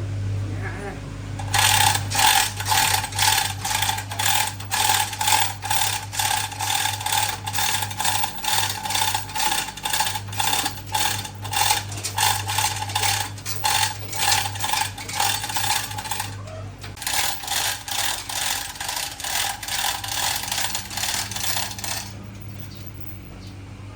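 A ratcheting hand tool, most likely a ratchet wrench working a bolt, cranked in quick repeated strokes of about two to three clicks a second. The strokes break off briefly about two-thirds of the way through, then resume before stopping near the end. A steady low hum runs underneath.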